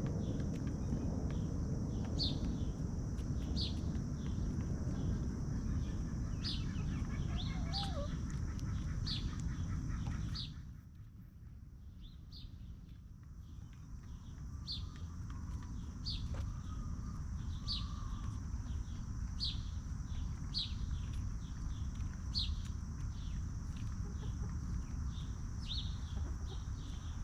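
Outdoor chicken-yard ambience: a short high chirp repeats about every second and a half over a steady high buzz and a low rumble. The rumble drops away for a few seconds near the middle, and a faint chicken cluck comes in once or twice.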